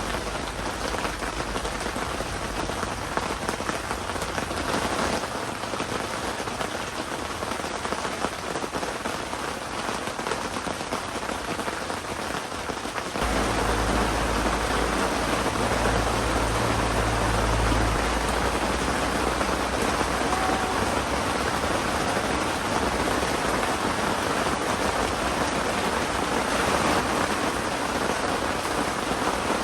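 Heavy typhoon rain falling steadily as a dense hiss. About thirteen seconds in it grows louder, with a low rumble for a few seconds.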